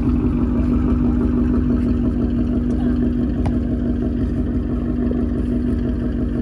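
Car's V8 engine running steadily under way, a constant low drone with a strong steady hum.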